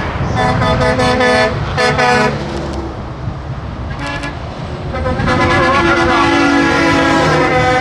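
Passing trucks sounding their horns over the rumble of diesel engines: three short blasts in the first two seconds, a brief toot around four seconds in, then a long blast from about five seconds on.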